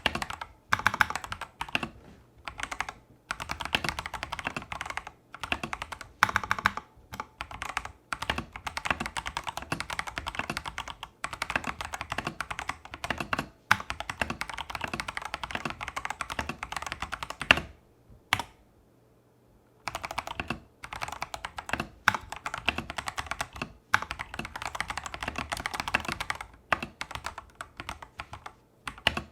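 Fast bursts of typing on a Tester68 mechanical keyboard with clone Holy Panda tactile switches and XDA-profile keycaps, in stock factory-lubed form without the owner's lubing or stabilizer mods. One louder key strike is followed by a brief pause about two-thirds through, then the typing resumes.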